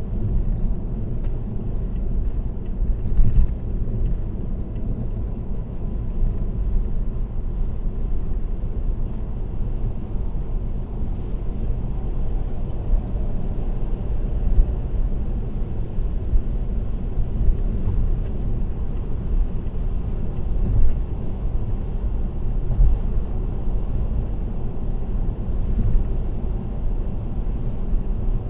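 Steady road and tyre noise of a car cruising on an expressway: a continuous low rumble.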